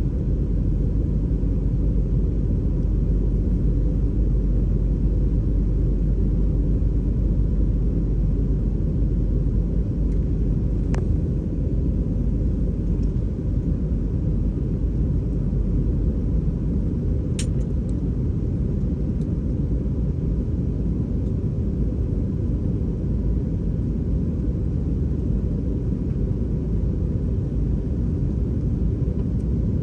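Steady low rumble of an Airbus A320's cabin in flight, engine and airflow noise, with a faint steady tone throughout. Two brief clicks come about 11 and 17 seconds in.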